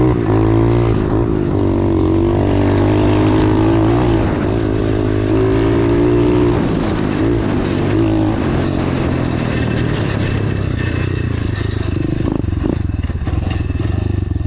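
Dirt bike engine running, its pitch rising and falling with the throttle, then settling into a rough, pulsing idle for the last few seconds.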